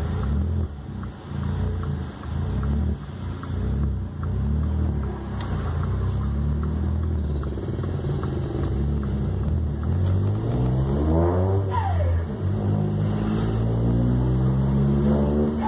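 VW up! TSI's turbocharged three-cylinder engine accelerating hard in two gears, revs climbing steadily, falling sharply at a gear change about twelve seconds in, then climbing again. At each shift a short falling whistle comes as the throttle closes, the turbo's release.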